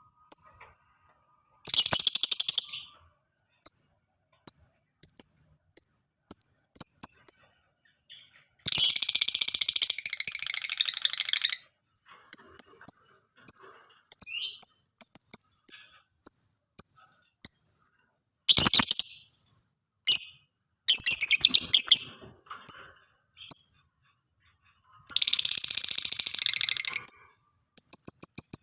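Lovebird calling: a run of short, high, shrill chirps about two a second, broken several times by long, loud rapid chattering trills.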